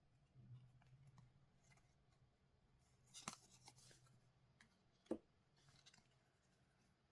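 Faint handling of trading-card packs and cards: a brief crinkling rustle about three seconds in with a sharp click, another single sharp click about five seconds in, and a softer rustle just after.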